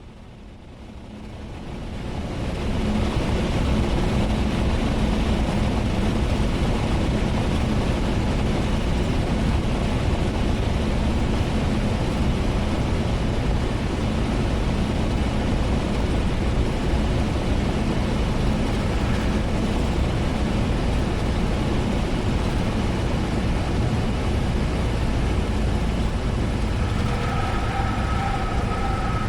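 Cessna 172S's four-cylinder Lycoming engine and slipstream heard from inside the cockpit on final approach: a steady drone with a low hum that swells up over the first few seconds and then holds even. Thin whistling tones come in near the end.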